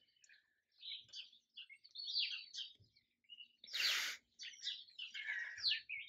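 Small birds chirping and twittering in quick, overlapping calls, with a short burst of noise about four seconds in.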